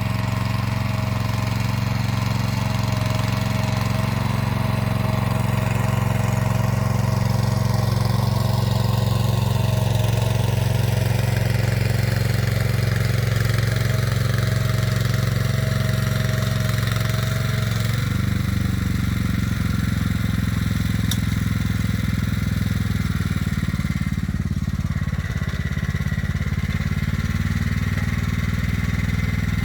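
Motor Sich walk-behind tractor's engine running steadily under load while it pulls an arrow-type hiller through the soil. A steady whine in its sound stops about eighteen seconds in, and the engine note shifts at that moment.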